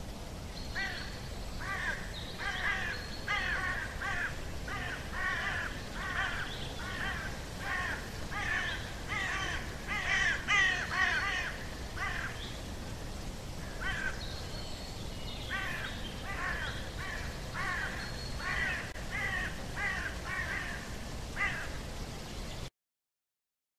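A bird calling over and over in a long series of short calls, about two a second, with a short pause around the middle; the calls stop suddenly just before the end.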